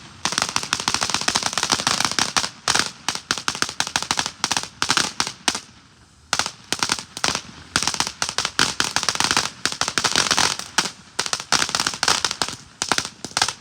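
A lit firework going off in rapid runs of sharp cracks and pops like a string of firecrackers. There is a brief lull about six seconds in, then it crackles on again.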